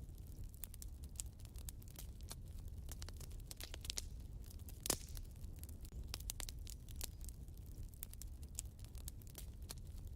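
Wood fire in a fireplace crackling, with many small irregular snaps over a low rumble and one louder pop about five seconds in.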